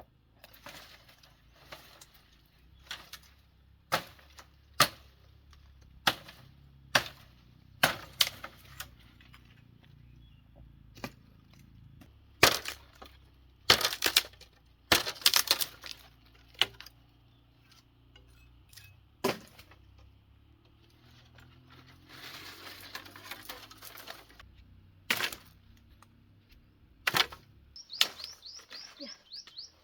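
Irregular sharp knocks and clatters of household things and tools being handled and set down, with a stretch of rustling a little past the middle and a quick run of light ticks near the end.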